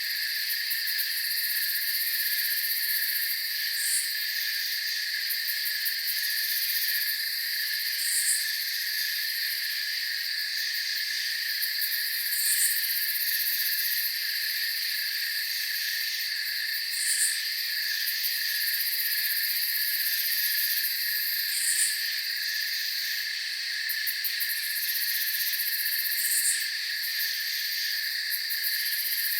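Steady night chorus of crickets and other insects, with a short high chirp repeating about every four and a half seconds.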